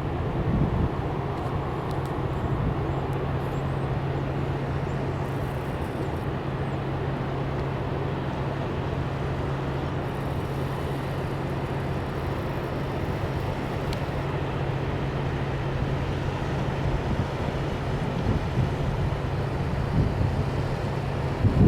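An engine or motor running steadily: a constant low hum under an even rushing noise, with no change in speed.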